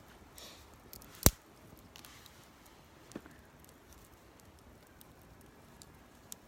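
Wood campfire burning quietly, with a loud sharp pop about a second in, a smaller pop about three seconds in and a few faint ticks near the end.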